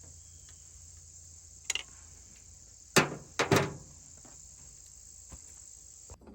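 Steady insect chirring, like crickets, with a few light clicks and two loud thunks about half a second apart, three seconds in.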